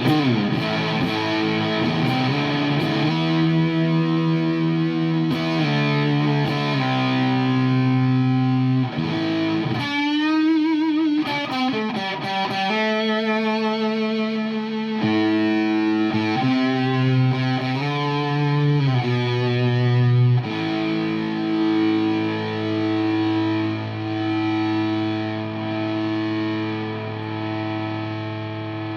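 Electric guitar played through a Sola Sound Jumbo Tone Bender, a silicon fuzz pedal: thick, saturated chords and held notes with long sustain. About ten seconds in there is a wavering string bend, and over the last third long notes are held with vibrato.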